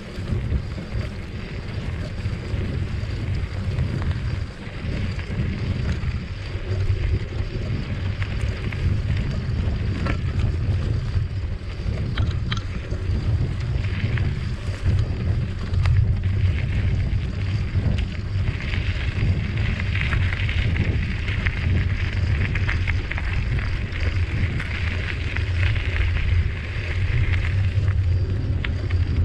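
Wind buffeting the microphone of a camera on a moving bicycle, a steady low rumble. A higher hiss joins about two-thirds of the way in and stops shortly before the end.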